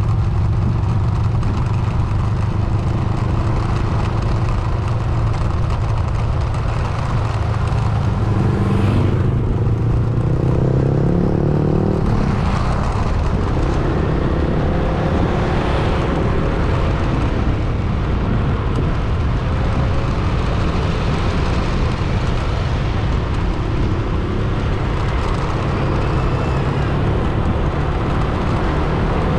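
A vehicle driving on a road: steady engine and tyre noise, the engine note climbing about nine seconds in and dropping back around twelve seconds in.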